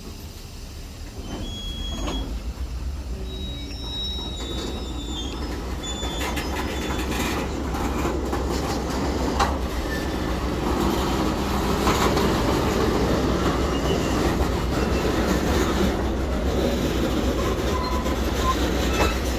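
Freight train tank cars rolling past close by: a steady rumble of steel wheels on rail that grows slowly louder, with scattered clicks and a few short, high wheel squeals in the first few seconds.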